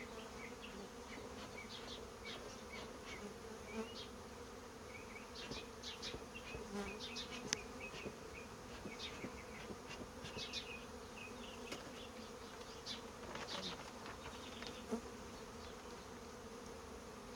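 A mass of honeybees buzzing steadily around an open hive, a continuous low hum, with scattered light clicks and taps throughout.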